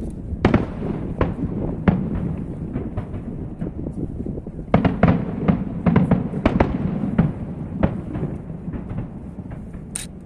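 Fireworks show bursting, many overlapping bangs and crackles over a continuous low rumble, densest about five to seven seconds in and thinning near the end.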